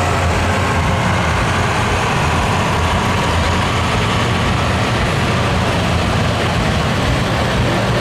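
Diesel pickup truck engine running steadily at a loud, even level.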